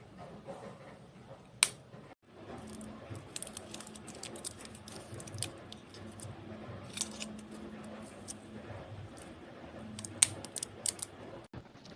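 Small hard objects being handled, with scattered sharp clicks and light rattling over a low steady hum.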